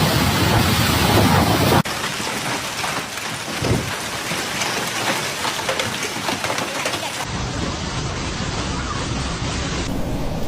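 Storm noise of heavy rain and wind, changing abruptly about two seconds in and again twice near the end, with a brief low rumble of thunder a little under four seconds in.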